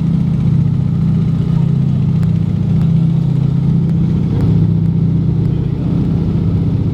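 The three radial engines of a Junkers Ju 52/3m running steadily in cruise flight, a loud, even, low drone with a rapid pulsing beat.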